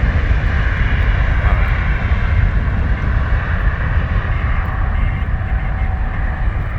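Boeing 777-300ER's GE90 turbofan engines at takeoff thrust: a deep, steady rumble with a high whine that slowly fades.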